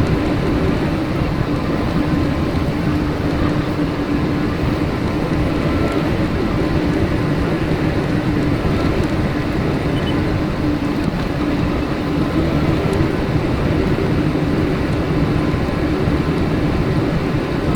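Tractor engine and small square baler running steadily while baling linseed straw, heard sped up with the high-speed footage.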